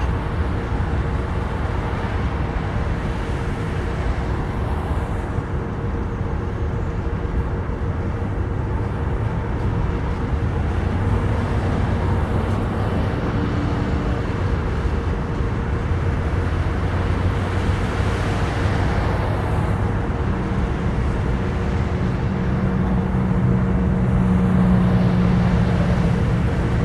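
BNSF freight train rolling past, a steady rumble of wheels and cars, with a low hum that grows louder near the end.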